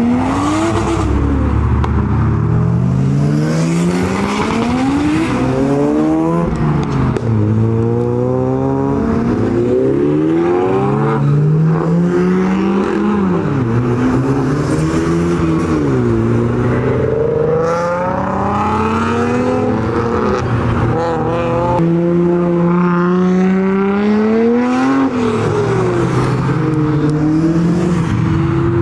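Engines of modified Japanese cars accelerating away one after another, revving up and dropping back in pitch again and again as they shift through the gears.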